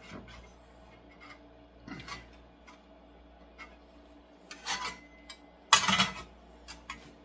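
A meat slicer being handled and set up: scattered light clicks and knocks, with one louder clatter about six seconds in.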